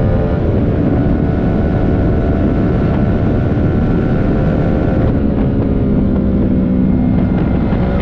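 Yamaha R3 motorcycle's parallel-twin engine running steadily under way, over a constant low road and wind rumble; its engine note changes to a lower tone about five seconds in.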